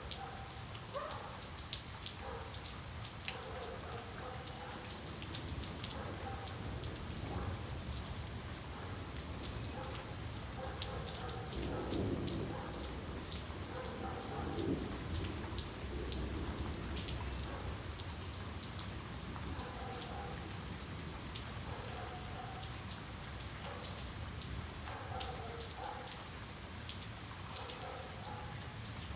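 Steady rain falling, with many small drop ticks close by. A low rumble of thunder swells and fades about halfway through.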